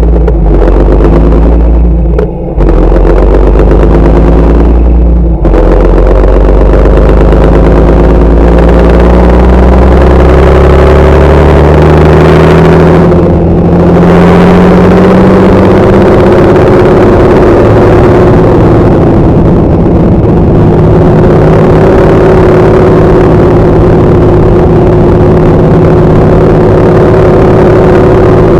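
Large farm tractor's diesel engine running loud and close. Its revs climb over several seconds, then hold steady under load.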